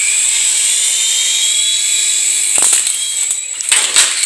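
Small RC mini helicopter's electric motor and rotor whining steadily at a high pitch, the whine rising slightly. A few sharp knocks come in over the last third.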